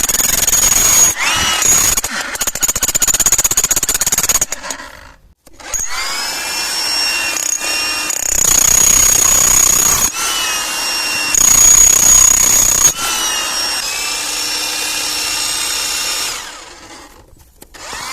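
Hilti TE1000 electric demolition breaker running in several bursts, its motor whine rising each time it starts up and dying away when it stops. It is quiet near the end.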